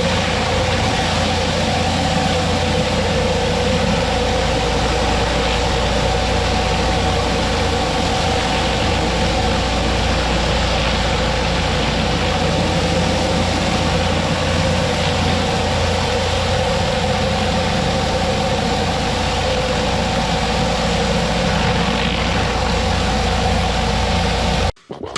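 Pressure washer running at full power with a surface cleaner spinning over concrete: a steady hiss of spray over a low engine drone with two steady tones. It cuts off abruptly near the end, and electronic music begins.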